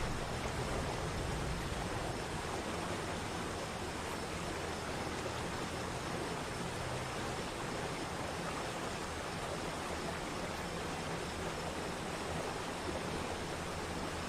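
Mountain waterfall: a steady rush of falling water, an even hiss over a low rumble.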